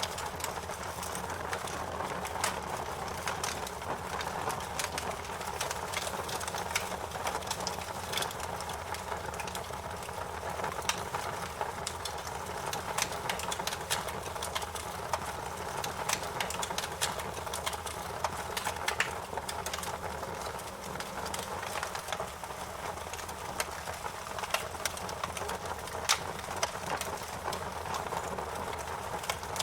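Campfire crackling: a steady hiss of burning wood with frequent irregular sharp pops and snaps, a few of them louder than the rest.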